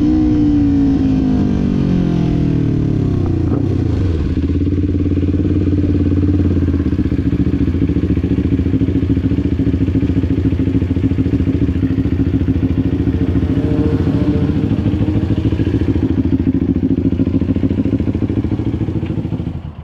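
Kawasaki Ninja 400's parallel-twin engine coming off the throttle, its revs falling over the first few seconds, then idling steadily until it cuts off at the very end.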